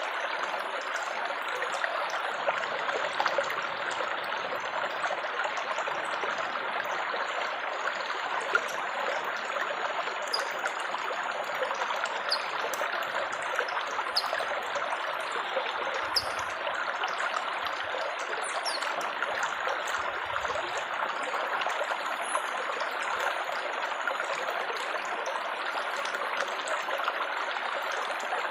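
Water trickling and burbling steadily, like a small stream.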